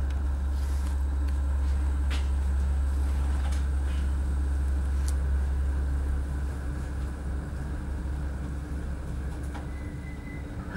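Commuter train heard from inside the carriage: a steady low rumble as it rolls slowly, with a few sharp clicks and knocks, easing a little about halfway through.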